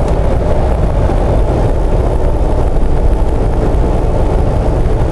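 Steady road and engine noise heard inside the cab of a Jeep Wrangler JK with a swapped-in Chevy 5.3 V8, cruising at highway speed on cruise control.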